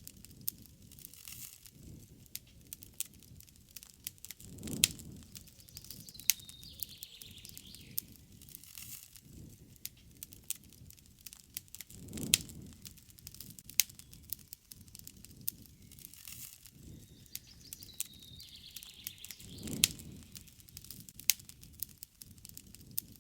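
Wood campfire crackling, with frequent sharp pops and a soft low rush of the flames three times. A bird calls twice in the background, each time a short call falling into a trill.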